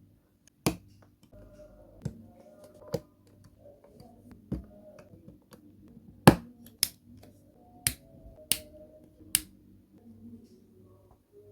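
Plastic Lego pieces being snapped together by hand: about nine sharp clicks at irregular intervals, the loudest a little past halfway through.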